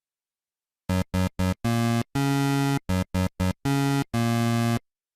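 Electronic synthesizer tones in a rhythmic pattern of short and long notes at nearly one pitch, starting about a second in after a silence.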